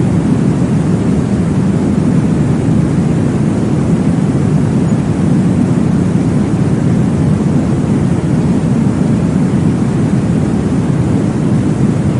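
Steady, deep whooshing noise from a baby-sleep white-noise track, meant to recreate the whoosh heard in the womb. It runs evenly, without breaks, beats or changes.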